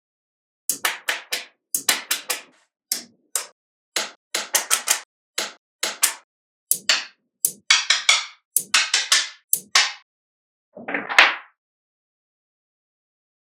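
Small magnetic balls clicking and snapping together in quick runs of sharp clicks, with short silences between the runs. A longer rattle of balls comes about eleven seconds in.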